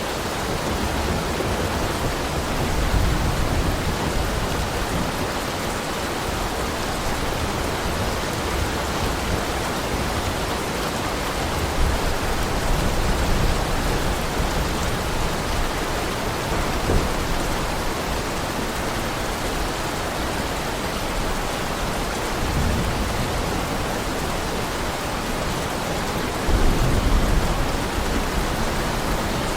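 Heavy rain falling in a steady, even hiss, with a few deeper swells of low rumble, the strongest near the end.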